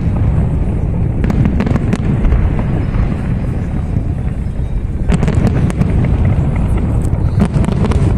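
Fireworks salute going off: groups of sharp bangs and crackles about a second in and again around five seconds in, over a steady low rumble.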